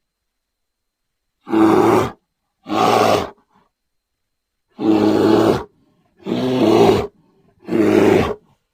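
An animal calling five times, each call under a second long with a stack of pitched tones, separated by silence.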